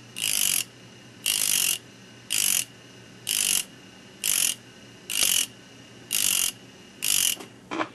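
A spinning black carborundum disc grinding the cutting edges of a small high-speed steel drill bur, one tooth at a time: short grinding hisses about once a second as the edge is touched to the disc, over the steady hum of the running tool between touches.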